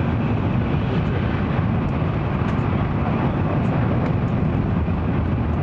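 N700 series Shinkansen running at speed, heard inside the passenger cabin: a steady low rumble with a rushing hiss above it.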